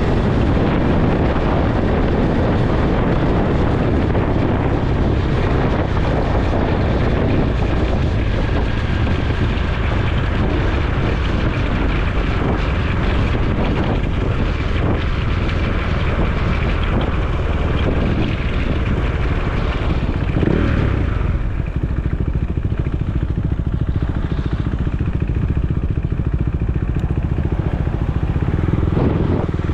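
Motorcycle engine running on the move, with wind rushing over the microphone. The wind rush eases about two-thirds of the way through while the engine rumble carries on.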